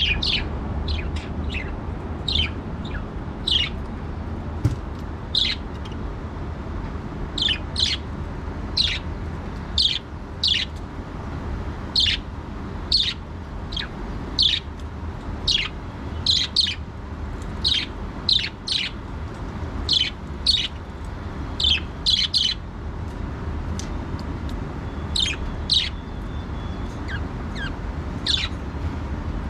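Budgerigars giving short, sharp chirps and squawks, about one or two a second with brief pauses, over a steady low hum.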